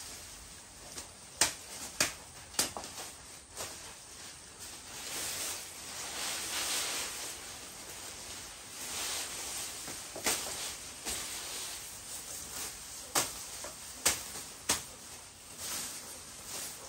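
Scattered sharp knocks and snaps over a rustling hiss that swells and fades several times.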